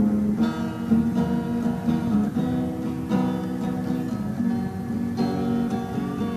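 Acoustic guitar strumming chords in a steady rhythm, the instrumental intro of a song, with no singing yet.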